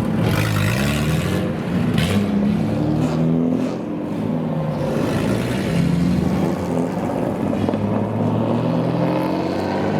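Loud exhaust of a modified car engine running with its revs rising and falling, and a rev climbing near the end.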